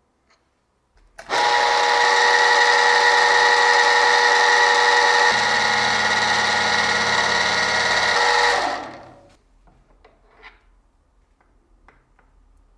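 Electric power tool running for about seven seconds: it starts abruptly, holds a steady whine with a hiss, gains a lower rumble partway through as if under load, then winds down as the motor coasts to a stop.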